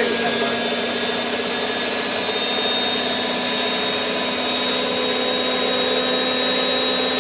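Hotpoint 9534A washing machine in its final spin at high speed, aimed at 1,000 rpm: a steady loud rush of the spinning drum with a constant motor whine.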